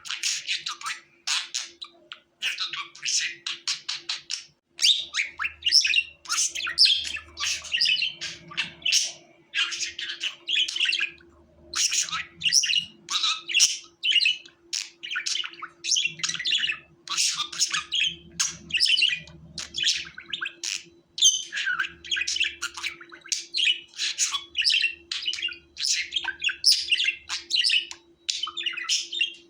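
Budgerigar chirping and warbling without a break, a rapid chatter of short, high chirps.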